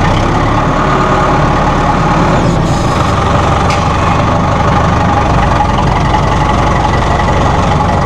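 Perkins 4.4-litre diesel engine of a 2007 Massey Ferguson 573 tractor running steadily with the transmission in first gear, with a light click about three and a half seconds in.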